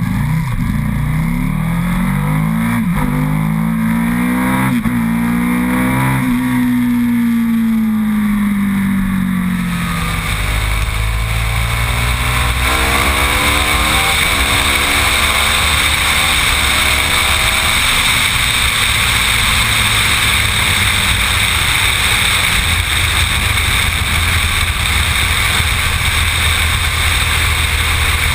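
Big-bore 1127 cc Rotax V990 V-twin of an Aprilia Tuono accelerating hard through the gears, its pitch climbing and dropping back at each shift, then easing off. About ten seconds in a loud rush of wind noise joins at speed, and the engine climbs through several more gears.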